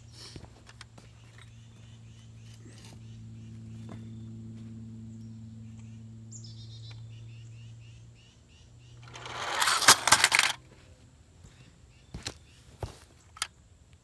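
Radio-controlled truck's electric motor humming steadily for about eight seconds, then a loud clattering crash about nine seconds in as the weighted truck hits, followed by a few light knocks.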